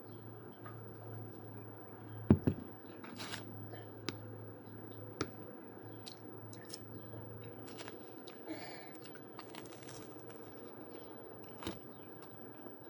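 A person chewing and biting food close to the microphone, with scattered wet mouth clicks and smacks. A sharp knock about two seconds in is the loudest sound, and a faint low hum stops about halfway through.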